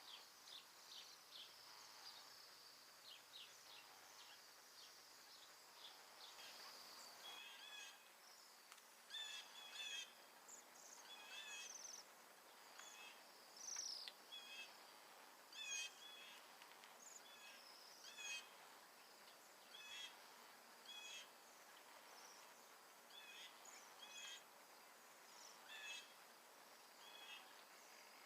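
A flock of Bohemian waxwings giving high, thin trilling calls, faint and heard through a door. From about eight seconds in, short repeated chirps come every second or two.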